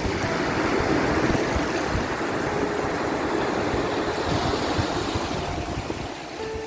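Sea waves surging and washing in a continuous rush, swelling early on and easing off near the end.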